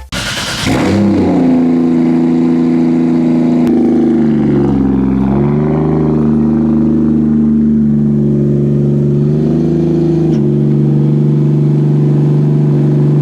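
Engine of a 2JZ-GTE-swapped Nissan 240SX drift car running at a steady idle, its pitch sagging briefly and recovering about five seconds in.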